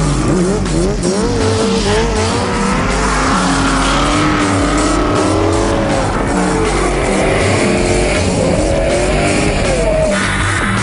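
Drifting car's engine revving up and down with tyre squeal, over background music.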